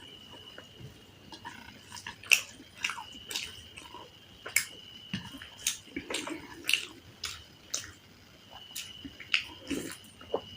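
Close-miked mouth sounds of someone eating a curry meal: wet chewing with sharp, irregular smacks and clicks.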